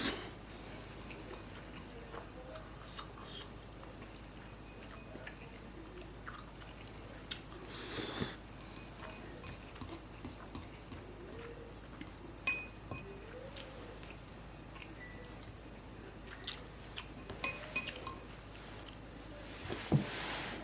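A person eating ramen noodles: chewing with scattered small clicks, a short noisy burst about eight seconds in, and a few light ringing clinks of utensils against the bowl.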